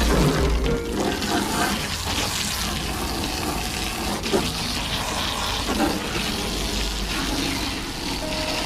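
Garden hose spraying water into a metal johnboat hull, a steady rushing hiss of water splashing on the metal.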